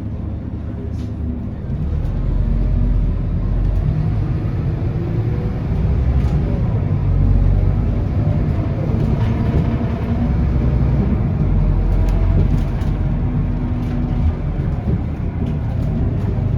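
On board a Scania K230UB city bus: its rear-mounted diesel engine and road noise, steady underway, getting louder about two seconds in.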